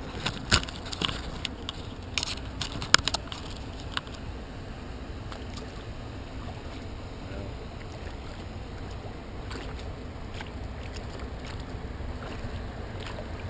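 Kayak paddle strokes splashing in the water, with several sharp knocks and splashes in the first four seconds, then a steady low rumble of water and wind.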